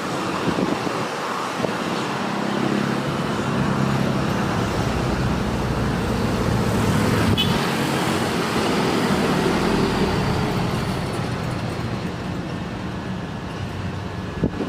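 Jet airliner passing low on its landing approach. The engine rumble swells to a peak about halfway through and then fades, with a faint high whine dropping slowly in pitch.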